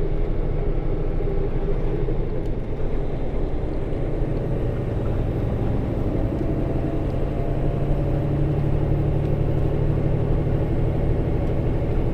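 Semi truck's diesel engine running steadily while driving, heard from inside the cab as a continuous low rumble.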